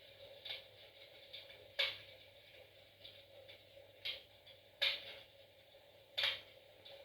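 Fire in a fireplace crackling, with about five sharp, irregularly spaced pops and smaller ticks between them.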